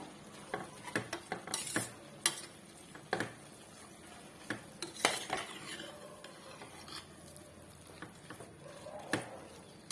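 A spoon stirring and scraping minced chicken keema in a kadai, with irregular clinks and knocks against the pan as the mince is sautéed dry.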